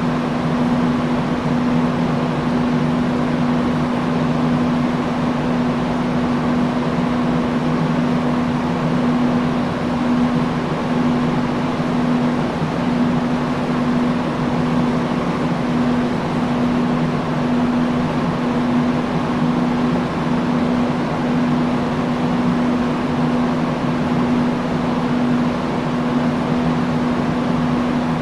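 Industrial fan running steadily: an even rush of moving air with a constant low motor hum.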